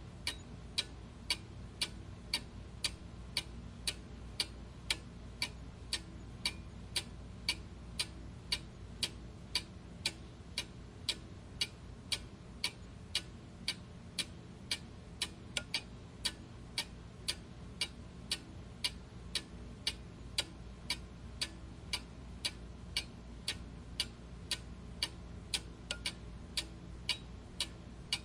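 Clock ticking steadily, about two ticks a second, each tick a short sharp click, over a faint low hum.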